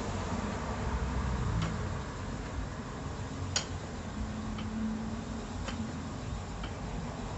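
Spinning wheel being treadled, clicking lightly about once a second over a low steady rumble.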